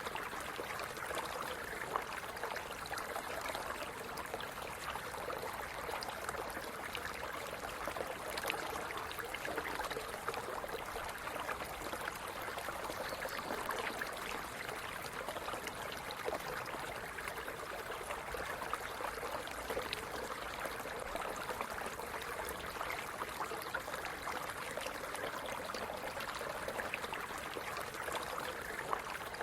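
A small stream running over stones, a steady gurgling and splashing flow with many small droplet-like ticks.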